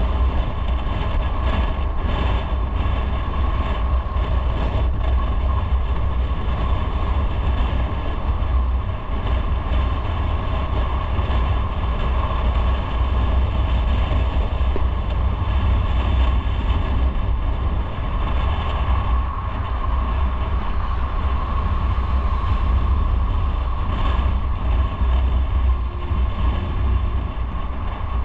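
Motorcycle on the move, its engine running at a steady pace under a constant deep rumble, with a steady whine held throughout.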